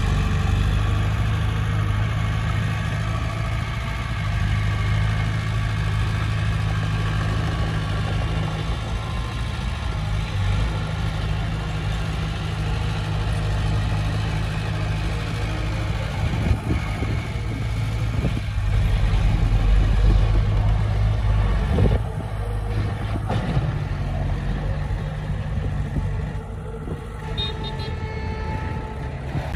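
Heavy diesel engine of earth-moving equipment running steadily under load, with a few knocks about two-thirds of the way through and a brief swell in level before the engine note drops back.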